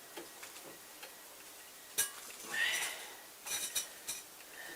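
Steel parts and tools being handled at a vise: a sharp click about two seconds in, a brief scrape, then a few light metallic clinks that ring.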